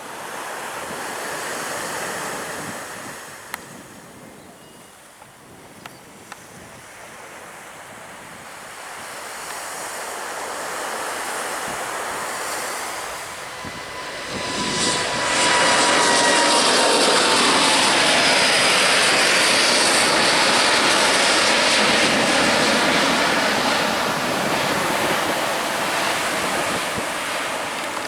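Jet airliner engines growing from a distant rumble to a loud steady noise about halfway through as the aircraft passes close by, with an engine whine gliding down in pitch as it goes past.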